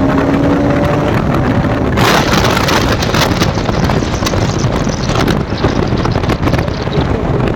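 Heavy wind buffeting the microphone of a moving motorcycle, with the road and engine noise beneath it. It gusts louder about two seconds in.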